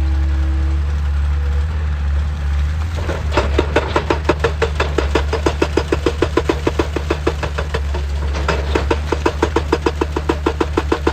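Excavator engine running steadily, with a hydraulic rock breaker hammering rock in a rapid, even run of blows. It starts about three seconds in, stops briefly, and starts again.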